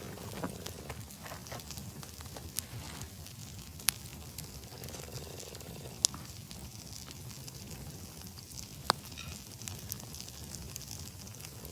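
Campfire burning and crackling, with many small ticks and three sharp pops about four, six and nine seconds in.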